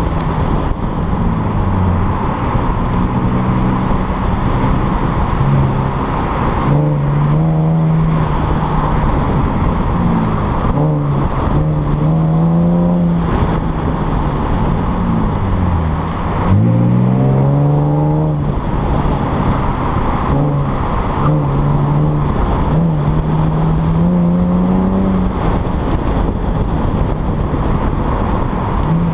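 Chevrolet Camaro's engine under way, its pitch climbing several times as it accelerates and falling back in between, over a steady rush of wind on an outside-mounted action camera's microphone.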